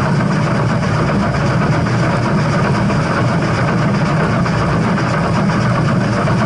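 Steam train running with a steady, loud rumble and noise, without distinct chuffs or a whistle.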